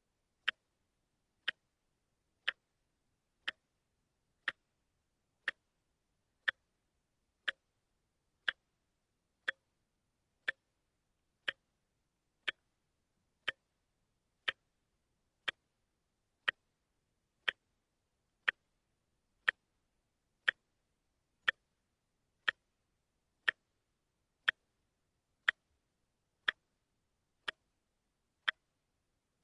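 Quartz watch ticking once a second as its second hand steps: short, sharp, evenly spaced ticks with silence between.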